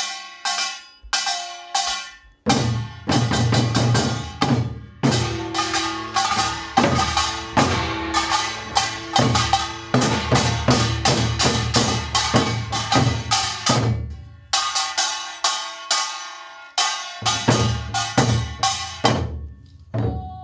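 Live drum percussion played in a fast, driving rhythm of sharp strikes over a deep drum. The deep drum drops out for a couple of seconds near the end, then comes back in.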